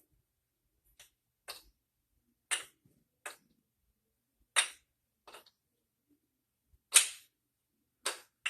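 A kendama's wooden ball clacking onto the cups and into bird balances during an Around Bird trick. About nine sharp wooden clacks come at uneven intervals, the loudest about seven seconds in.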